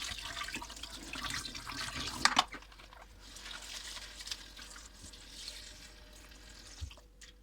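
Tap water running into a sink, with two sharp knocks a little over two seconds in; the flow then drops to a quieter stream and fades near the end.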